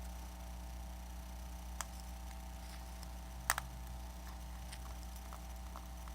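A few light plastic clicks and taps of pry tools against an iPad's glass and frame, the loudest a quick double click about halfway through, over a steady low hum.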